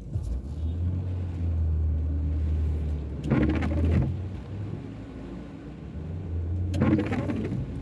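Low steady engine and road rumble of a car heard from inside the cabin. Two brief louder sounds come about three and a half seconds apart, the first about three seconds in and the second near the end.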